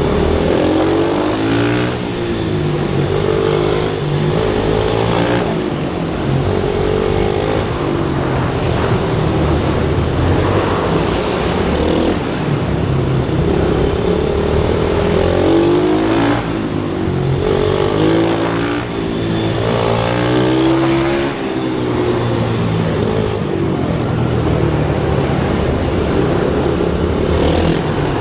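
Pit bike engines revving up and down again and again as the bikes accelerate and brake around a track, with several engines overlapping at times.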